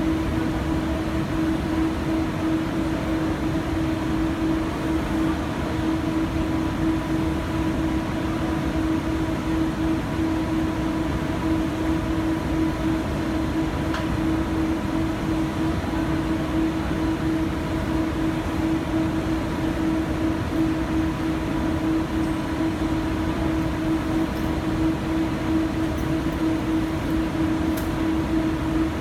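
Guangzhou Metro Line 1 subway train running at steady speed: an even rumble of wheels on rail with a constant humming tone over it, the pitch neither rising nor falling.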